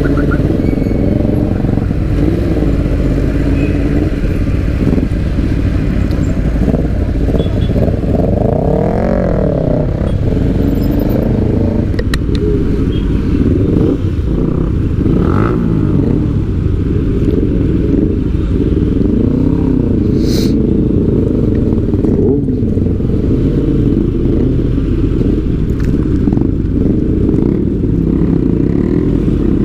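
Motorcycle engine running steadily, its pitch rising and falling a couple of times.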